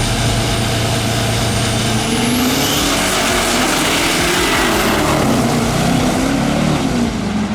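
Diesel drag-racing truck engine running loud and steady, engine and exhaust noise with no breaks.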